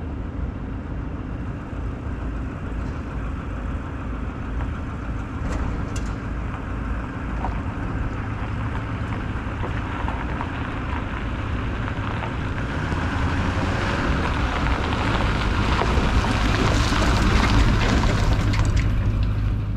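Truck engine running steadily, growing louder over the last several seconds.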